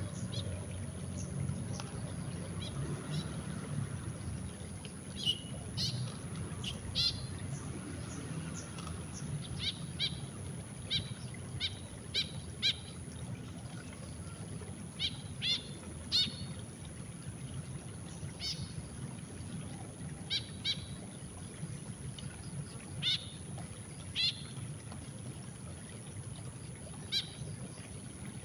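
White-breasted woodswallow giving short, sharp calls, singly and in quick runs of two to four, every second or two, over a steady low rumble.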